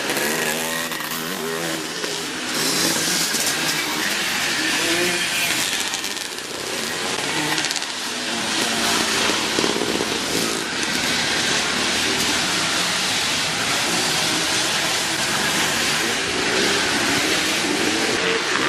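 Classic twinshock motocross motorcycles racing, their engines revving up and down with the throttle. The pitch swoops rise and fall several times, most clearly near the start and near the end.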